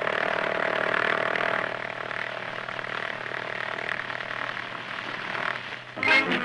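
Propeller aircraft engine running with a steady drone through an old newsreel soundtrack, with some hiss; music comes in near the end.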